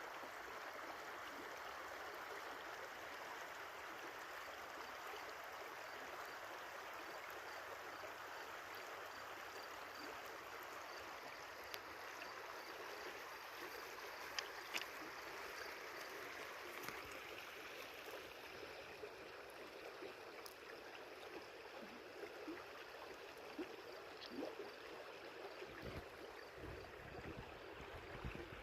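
Steady rushing of a flowing stream over stones, with a few faint clicks and some low knocks near the end.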